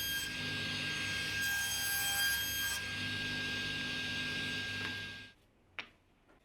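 Electric power tool running against wood, with repeated strokes, then switched off a little over five seconds in, followed by a single click.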